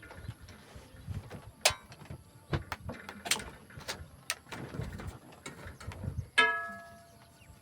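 Scattered clicks and knocks, then about six seconds in a single sharp strike that rings with a clear tone and fades over nearly a second.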